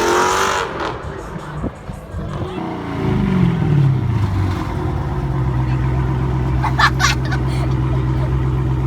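Car engine revving, the revs falling away about three seconds in and settling into a steady idle, with a couple of sharp clicks near the end.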